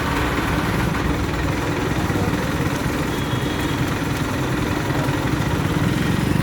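Heavy diesel vehicle engine idling steadily with a low, even throb.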